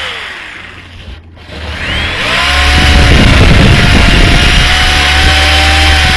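Grinder with a wheel stripping paint off a sheet-metal sign: the motor winds down with a falling whine over the first second, goes quiet briefly, then spins back up about two seconds in and runs steadily against the metal.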